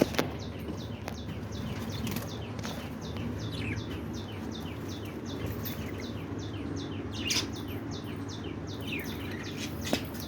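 Aviary budgerigars and finches chirping: a quick run of short, downward-sliding chirps, several a second, with one louder call about seven seconds in.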